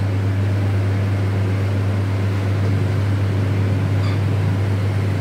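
A steady low hum runs throughout, with a faint tap about four seconds in.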